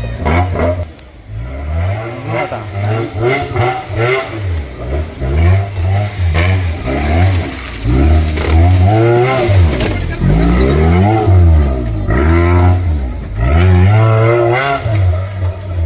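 Off-road 4x4 truck engine revving hard again and again, its pitch climbing and dropping every second or two.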